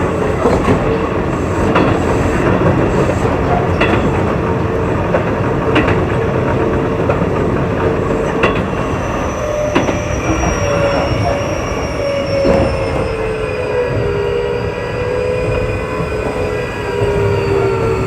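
Keio 8000 series electric train running, heard from on board: steady rumble of wheels on rail with a joint click every couple of seconds. Over the second half, whining tones slowly fall in pitch.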